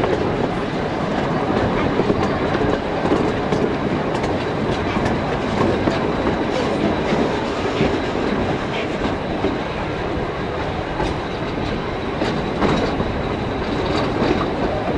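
Narrow-gauge passenger carriage rolling along at speed: a steady rumble of wheels on rail with irregular clicks from the rail joints, and a faint steady high squeal.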